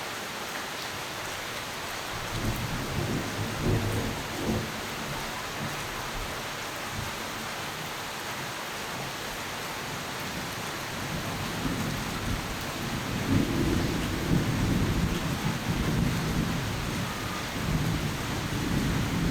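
Steady rain with thunder rumbling: a short low rumble a few seconds in, then a longer, louder rolling rumble from about two-thirds of the way through.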